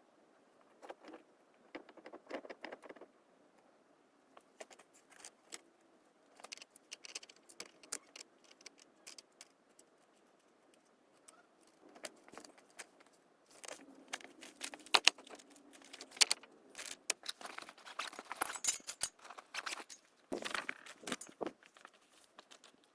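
Small metal objects clinking and jangling in irregular bursts of sharp clicks, sparse at first and busiest in the second half.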